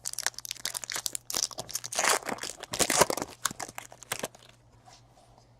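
Trading card pack wrapper crinkling and rustling as it is torn open and handled, a dense run of irregular crackles that dies away near the end.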